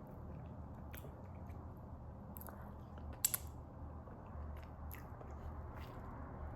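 Close-up chewing and wet mouth sounds of someone eating fufu and goat soup: scattered soft clicks and smacks, with a sharper pair of clicks about three seconds in.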